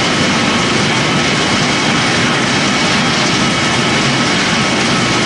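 Pellet-making machinery for corn stalk and sawdust running steadily: a loud, constant mechanical noise with no change in pace.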